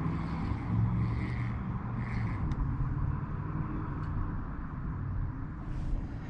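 A low, steady engine hum.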